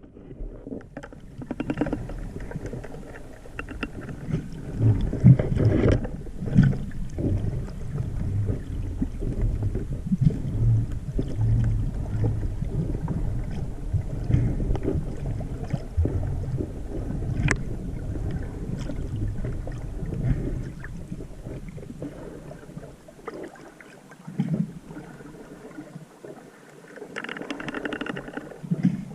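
Sea water surging and sloshing, heard as a muffled low rumble that swells and fades unevenly, with a brighter, hissier stretch near the end.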